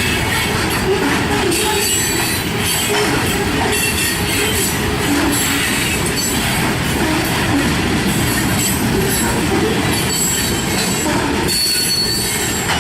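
Freight train cars rolling past on the rails, a steady loud wheel-and-rail noise with brief high-pitched wheel squeals now and then, one near the end.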